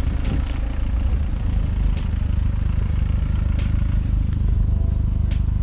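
Car engines running, a steady low rumble, with a few faint ticks over it.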